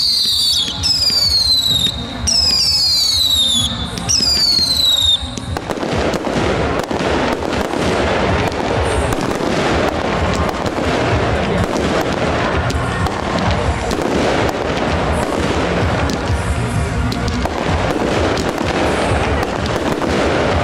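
Fireworks display: for the first few seconds a run of falling whistles about every second and a half, then from about five seconds in a dense, continuous crackling of many small bangs.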